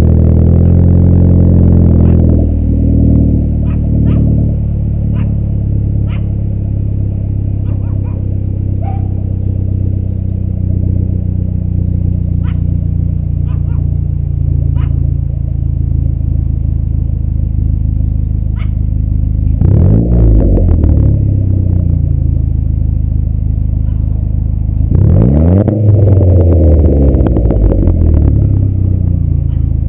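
Turbocharged Audi A4 engine running through a 3-inch turbo-back exhaust with dual Vibrant StreetRace mufflers, just after start-up. The raised start-up idle drops to a steady idle about two seconds in. The throttle is blipped a couple of times about two-thirds of the way through, and revved again for a few seconds near the end.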